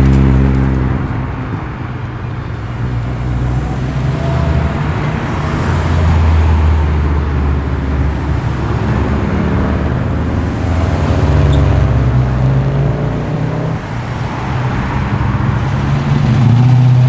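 Performance cars' engines and exhausts running at low speed as the cars drive past one after another. The sound swells as each car comes close, about every five or six seconds.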